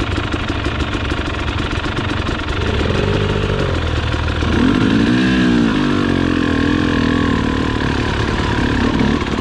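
Trail motorcycle engine running steadily, its pitch rising and falling for a couple of seconds around the middle as the throttle is worked.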